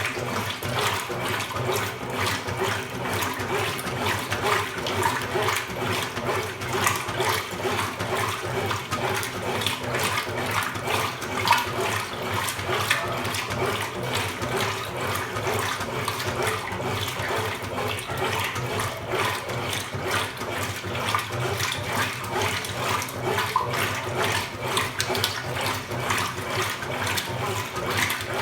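Water rushing and splashing steadily inside a Consul Supercargo 8 kg (CWL08C) washing machine during its wash cycle.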